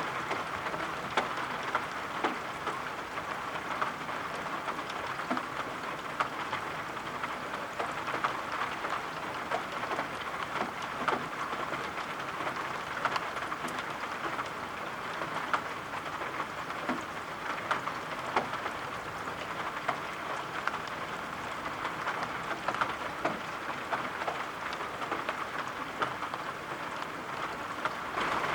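Steady rain with scattered drop ticks.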